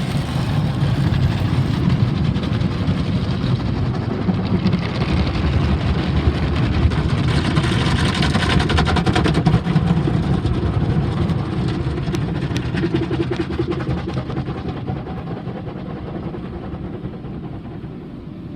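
Automatic car wash machinery running: a steady, loud rumbling wash of water spray and brushes that eases off over the last few seconds.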